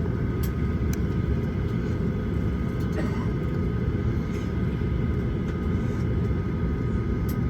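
Steady low cabin rumble inside a Boeing 737-900ER airliner, with a faint steady high hum and a few light clicks.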